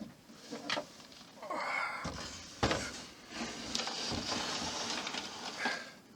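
Handling noise from a plastic model being moved on a work surface: a knock, then several seconds of scraping and rustling with clicks and knocks.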